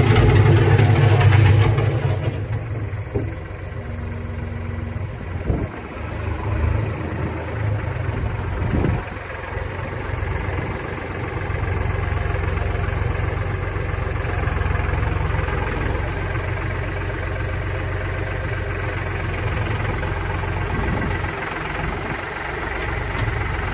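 Kioti DK65 tractor's diesel engine running, louder for the first couple of seconds and then settling to a steady, lower drone, with a couple of brief knocks in the first half.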